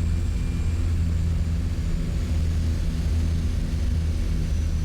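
Small propeller plane's engine drone, a steady low hum heard from inside the cabin in flight.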